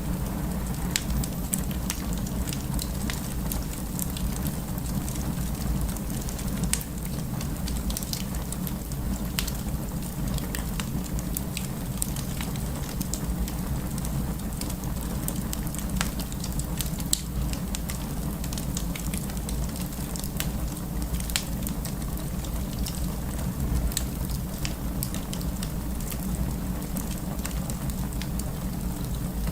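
A fire crackling: irregular sharp pops and snaps over a steady low rumble of the flames.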